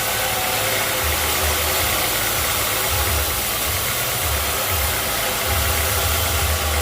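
Sawmill machinery running steadily: an engine with an even, constant hiss over it and an uneven low rumble that comes and goes.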